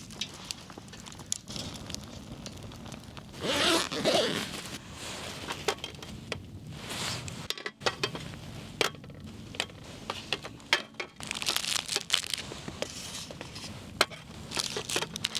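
Packaging rustling and crinkling as things are handled, with scattered small knocks and clinks of items being set down; the loudest rustling comes about four seconds in.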